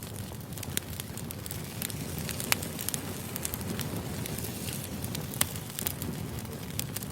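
Wood fire burning: a steady low rumble of flames with frequent sharp crackles and pops from the burning logs, the loudest pops about two and a half and five and a half seconds in.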